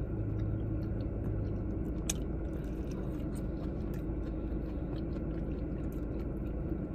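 A person chewing food, with small wet mouth clicks scattered throughout, over a steady low hum.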